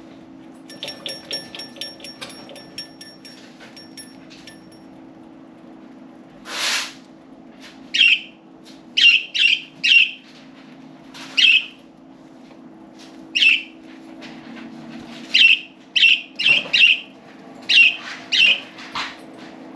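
Budgerigars calling: a quick run of soft ticking chirps at first, then a dozen or so loud, sharp chirps, with a short whoosh of flapping wings about seven seconds in.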